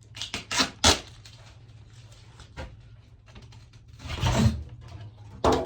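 Handling noise from unpacking a fridge freezer: a few sharp knocks and clatters in the first second, a longer scraping rustle about four seconds in, and another knock near the end.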